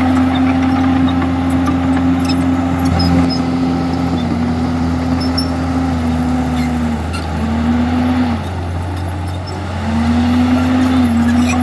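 Komatsu bulldozer's diesel engine running hard with a steady rumble. Its pitch dips and recovers several times in the second half.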